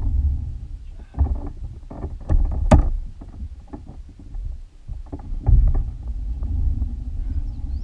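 Fishing kayak on the water: a run of knocks and clatter against the hull over a steady low rumble, with one sharp knock standing out a little under three seconds in.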